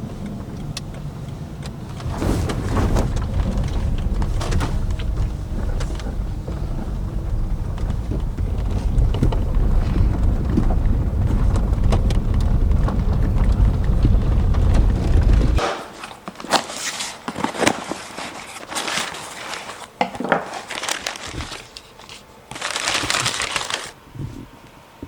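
A steady low rumble that cuts off suddenly about two-thirds of the way through, followed by scattered crinkling and rustling handling noises, with a brief louder hiss near the end.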